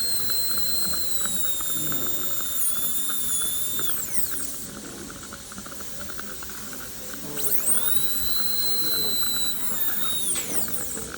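High-speed dental handpiece whining as it runs a burr on the front teeth, in two runs: the first winds down about four seconds in, the second spins up a few seconds later and winds down near the end.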